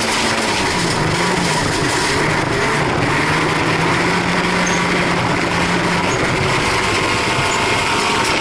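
Folkrace car's engine running hard while racing, heard from inside the stripped-out cabin over a steady rush of noise from the moving car. Its note drops slightly about half a second in and then holds steady.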